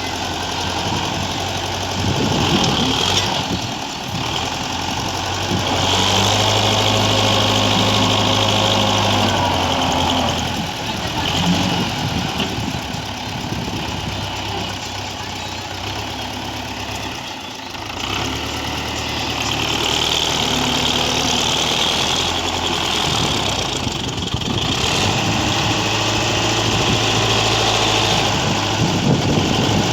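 Tractor's diesel engine running, its speed rising and falling several times as it is worked and eased off.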